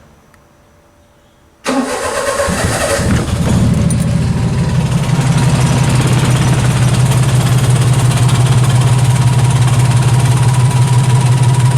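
Honda Acty kei truck engine, its carburetor freshly cleaned, starting up about two seconds in and settling into a steady idle.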